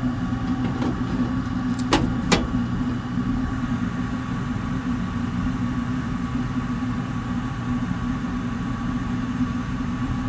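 York gas furnace running after being fired back up with a newly replaced draft inducer: a steady mechanical hum with a constant low tone. Two sharp clicks about two seconds in.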